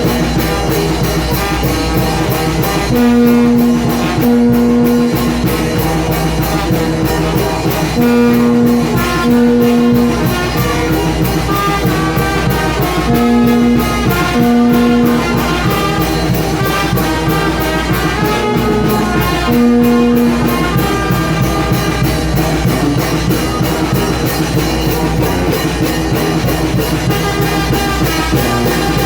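Brass band music, Mexican banda style, playing a tune with long held low brass notes that return in phrases every few seconds.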